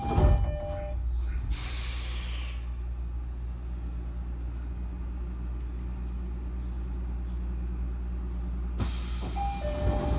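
Odakyu 1000-series electric train standing at a station. A loud hiss of air just at the start and a falling whine about two seconds in are followed by the steady low hum of the train's on-board equipment. A sharp click and another falling whine come near the end.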